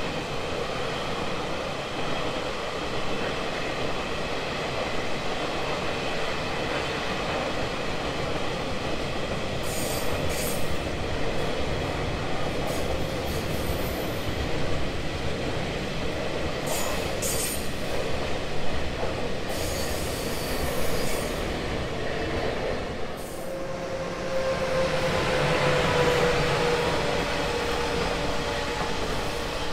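Freight train of flatcars, open-top wagons and enclosed car-carrier wagons rolling past at speed, with a steady rumble and clatter of wheels on the rails and short high squeals from the wheels. Near the end a steady wheel squeal rings out and slowly falls in pitch as the car-carrier wagons pass.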